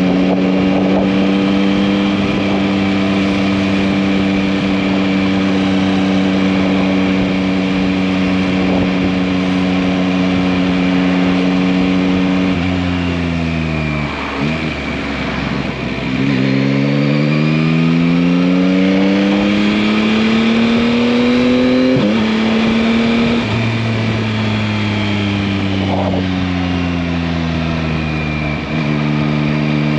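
2021 Yamaha MT-09's 890 cc inline-three engine on the road, holding a steady speed for about twelve seconds. Then it slows, pulls up strongly again with a gear change, eases off, and picks up once more near the end.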